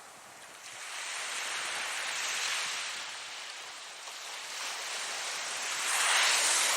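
Ocean waves breaking and washing in, two swells of surf noise, the second and louder one about six seconds in.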